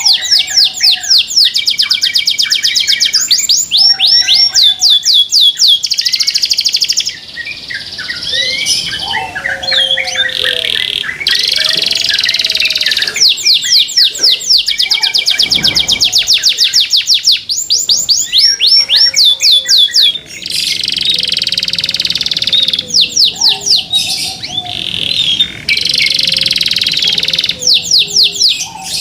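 Domestic canary singing loudly in long, fast rolling trills of rapidly repeated notes, broken by short pauses, with some lower whistled notes in between.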